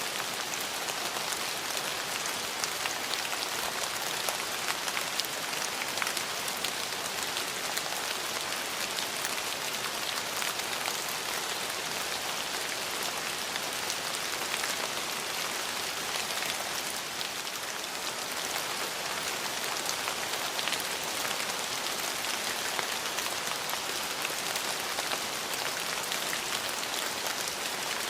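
Steady rain falling, with many fine drop ticks spattering on hard surfaces.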